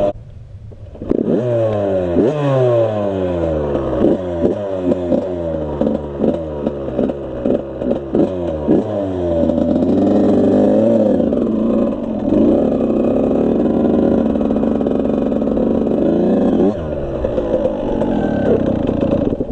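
Suzuki RM85's two-stroke engine revving in a quick run of throttle blips, each rising and falling in pitch. It is then held at high revs for several seconds and drops off about three seconds before the end.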